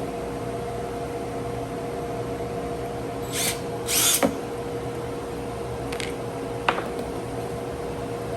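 Two short bursts of a power drill driving a screw, about three and four seconds in, followed by a couple of sharp clicks, over a steady background hum.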